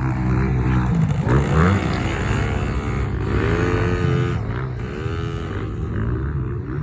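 Small two-stroke Yamaha PW50 mini dirt bike engine revving up and down several times as it is ridden, over a steady low engine drone.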